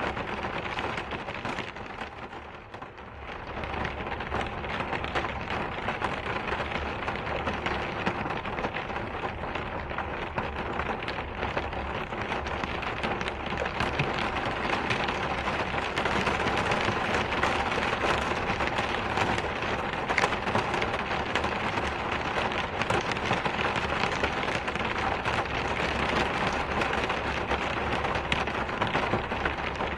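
Steady rain falling, a dense even hiss with scattered drop patter. It eases briefly about two to three seconds in, then holds steady.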